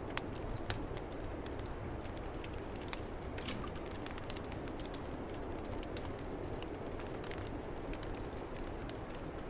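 Wood fire crackling in a fireplace, with scattered sharp pops over the steady low rush of snowstorm wind.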